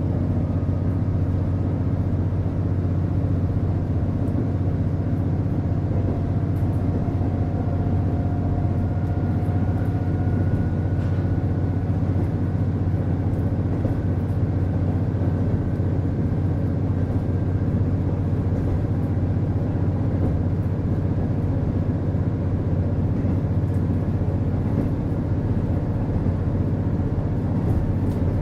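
Running sound of a KiHa 48 diesel railcar from inside the car: a steady low diesel engine drone, with a faint whine that slowly rises in pitch over the first half and occasional light ticks.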